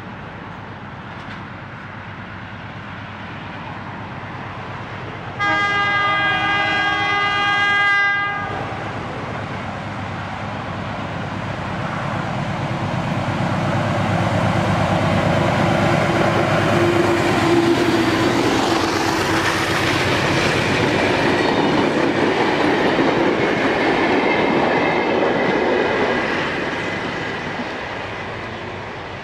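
A diesel locomotive sounds its multi-note horn once, for nearly three seconds, about five seconds in. It then approaches and passes hauling passenger carriages, its engine and wheels on the rails swelling to loudest as it goes by and fading away near the end.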